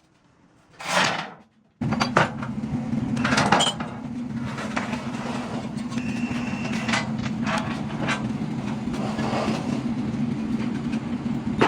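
A short whoosh about a second in, then a steady motor hum that starts abruptly and runs on, with intermittent metallic knocks and clicks over it.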